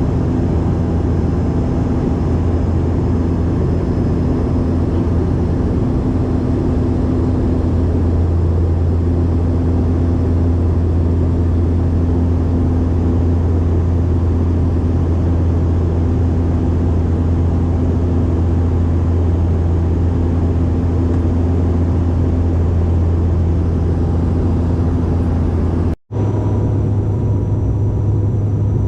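Steady, loud drone inside an airliner's cabin in flight: a low engine or propeller hum over constant rushing noise. About 26 seconds in there is a sudden cut, and the hum resumes a little higher in pitch.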